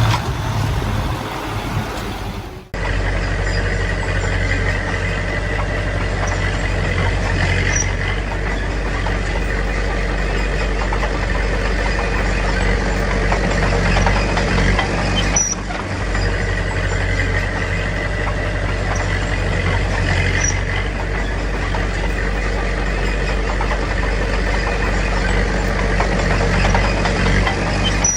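Diesel engine of heavy earthmoving machinery running steadily, with a few faint short high squeaks over it. The sound changes abruptly about three seconds in and again about halfway through.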